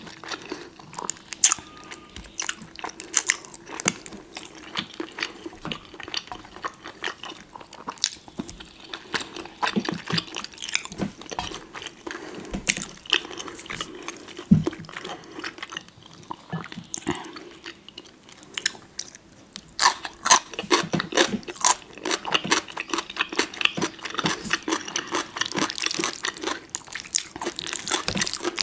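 Close-miked eating sounds: chewing and biting into spicy noodles and side foods, with many wet mouth clicks. It gets busier and denser near the end.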